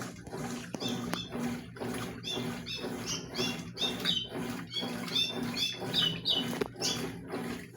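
Consul CWS washing machine washing a load of towels: rhythmic churning about twice a second, each stroke carrying a short high squeak that rises and falls.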